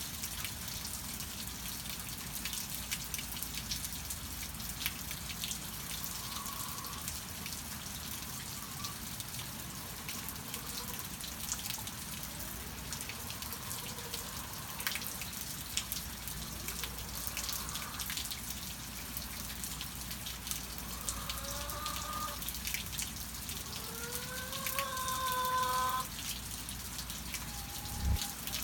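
Steady rain with many individual drips. Over it, hens give two short groups of drawn-out, pitched calls in the second half, and there is a single low thump near the end.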